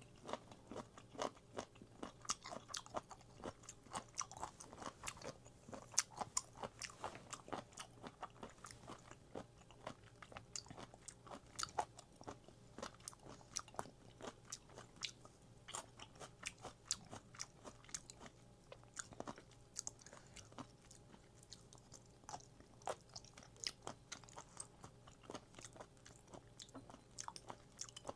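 Close-miked chewing of food, with a steady run of crisp, wet crunching clicks, a few a second.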